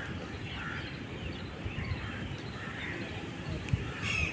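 Birds calling outdoors, short calls repeating every half second or so, over a steady low background rumble.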